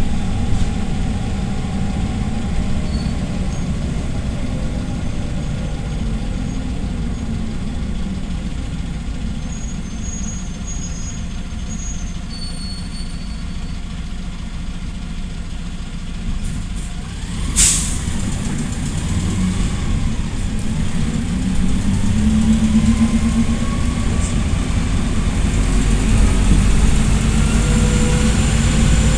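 PAZ-320405-04 Vector Next city bus engine running as the bus slows, with one short sharp air hiss from its pneumatics partway through. The bus then pulls away, the engine rising in pitch as it accelerates.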